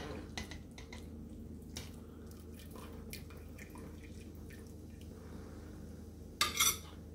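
Broth dripping and splashing back into a stockpot as simmered chicken bones are lifted out on a spoon, with faint clicks of the spoon, over a steady low hum. Near the end comes a short, louder clatter as the bones go onto a plate.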